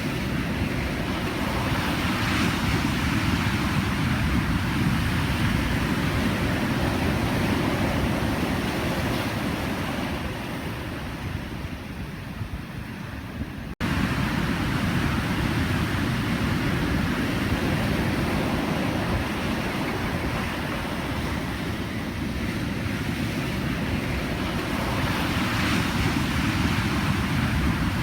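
Pacific Ocean surf: a steady wash of breaking waves that swells twice and eases for a few seconds, with a momentary dropout about halfway through.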